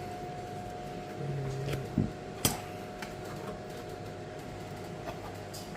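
Steady hum with a few sharp clicks and knocks about two seconds in, like parts or tools being handled.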